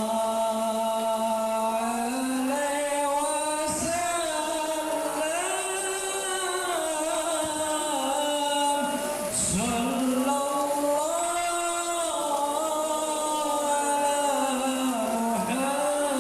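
Devotional sholawat chanting: voices singing in unison with long drawn-out notes that bend up and down in pitch, pausing briefly for breath twice.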